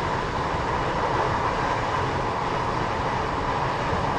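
Train running at a station platform: a steady, even rumble and hiss with no clear engine note.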